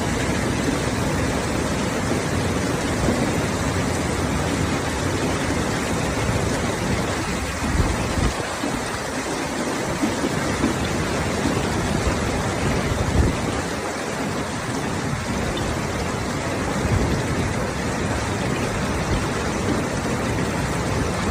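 Heavy rain pouring steadily, with a few short low thuds now and then.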